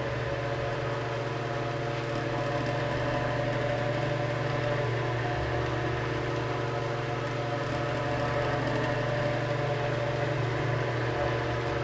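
Vintage Westinghouse Lively Aire 10-inch table fan, model 10LA4, running at its single speed: a steady motor hum with the rush of air from the blades, quiet and smooth.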